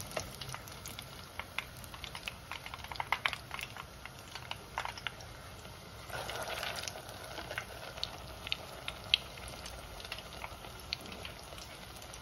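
Egg-coated minced-meat kababs frying in hot oil: a low steady sizzle with scattered sharp crackles and pops from spitting oil, swelling into a louder stretch of sizzling about six seconds in.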